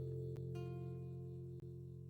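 Acoustic guitar chord ringing and slowly dying away, with a soft new note added about half a second in. Two faint clicks come through, one near the start and one past the middle.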